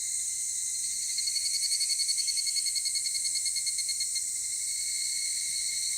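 Higurashi (evening cicada, Tanna japonensis) calling its rapid, pulsed "kana-kana" phrase, which swells and then fades between about one and four seconds in. Under it runs a steady high-pitched insect drone.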